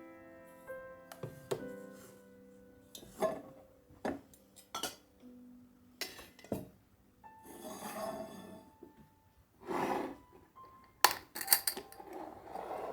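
Soft piano music fading out over the first few seconds, then a series of light clinks and knocks, like glass being handled, with a cluster of bright clinks near the end.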